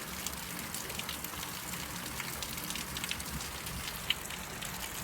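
Steady rain falling and pattering on surfaces, a dense patter of small drop ticks, with one sharper tick about four seconds in.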